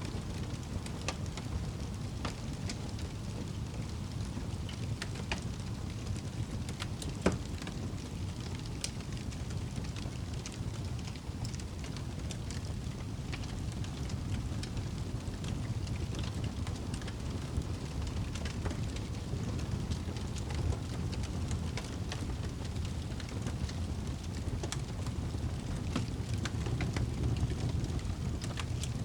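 Wood fire burning in a fireplace: a steady low roar with scattered crackles and pops, the loudest pop about seven seconds in.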